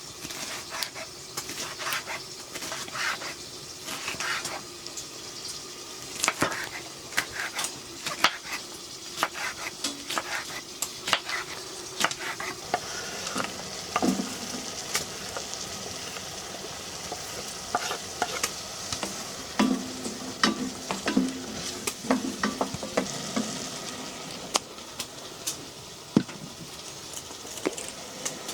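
Food sizzling in a pan while a utensil stirs it, with frequent clicks and scrapes of the utensil against the pan.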